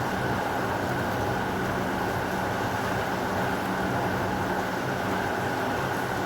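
Steady heavy rain, an even unbroken hiss with a faint steady hum underneath.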